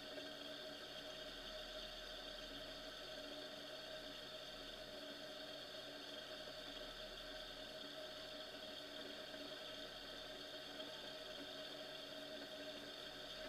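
Faint, steady running of an off-road Jeep's engine, an even hum with no changes in pace.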